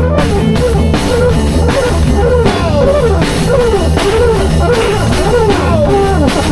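Live band jamming an improvised rock groove: drum kit beating steadily over a held low bass, with guitar playing a melody that bends up and down in pitch.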